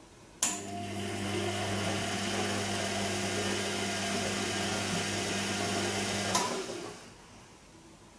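Bosch Serie 2 VarioPerfect washing machine's drain pump switching on with a click and running with a steady hum for about six seconds, then cutting off with a click, as it pumps out water near the end of the cycle.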